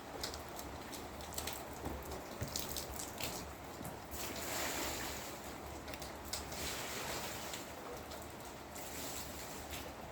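Rain falling steadily: a constant hiss with many scattered drips and taps, swelling slightly about four seconds in.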